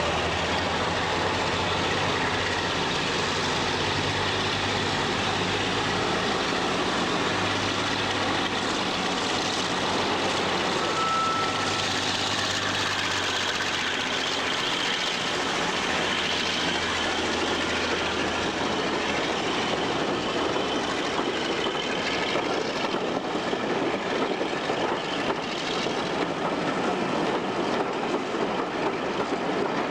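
Diesel-hydraulic locomotive's engine running steadily. About halfway through the engine note fades under the noisier sound of the train running along the track.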